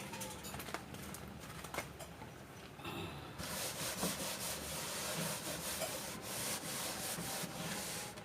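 Steady scrubbing on a surface, starting about three seconds in after a few faint knocks.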